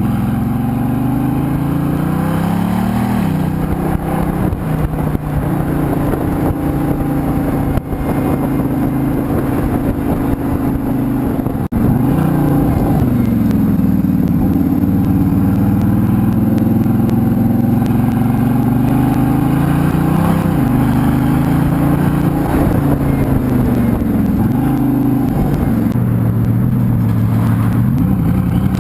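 Bugatti Veyron's quad-turbo W16 engine, through a Quicksilver titanium exhaust, accelerating hard through the gears. Its pitch climbs and drops sharply at each upshift, several times over, with a brief break about twelve seconds in.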